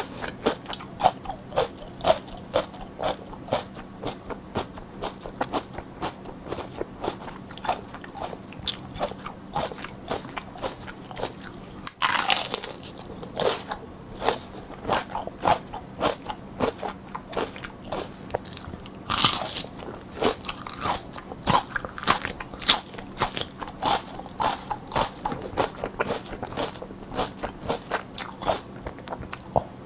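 Close-miked crunchy chewing of raw mini sweet peppers, a dense run of crisp cracks, with two louder crunches about twelve and nineteen seconds in.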